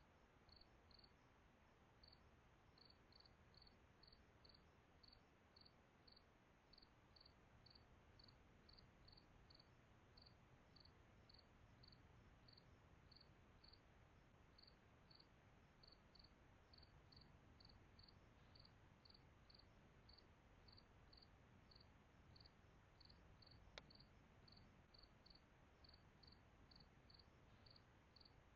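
Cricket chirping steadily, about two to three short, high chirps a second, faint, with one sharp click near the end.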